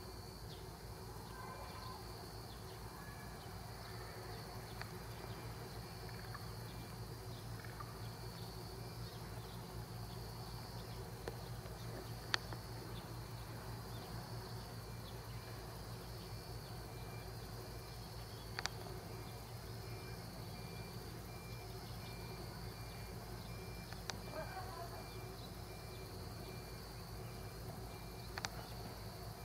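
Field insects chirping in a continuous high-pitched chorus, with a second, pulsing insect call running alongside. A few sharp clicks stand out over it, and a steady low hum sits underneath.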